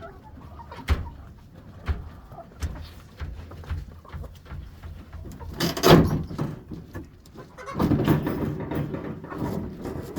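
Something being knocked about and shoved aside in a poultry coop: a few sharp knocks, a louder bang about six seconds in, then a couple of seconds of scraping and rustling, with birds calling now and then.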